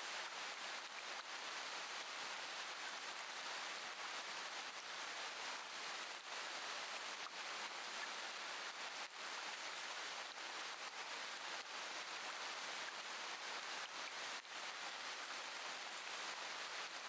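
Steady rain falling: an even hiss with faint pattering of individual drops.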